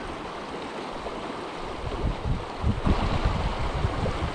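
Creek water running over rocks, a steady rushing. From about two seconds in, gusts of wind buffet the microphone.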